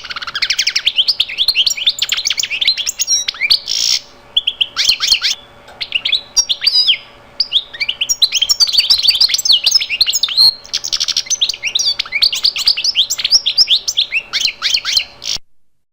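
Birdsong: many quick chirps sweeping up and down in pitch, in dense runs with short pauses, cutting off suddenly near the end.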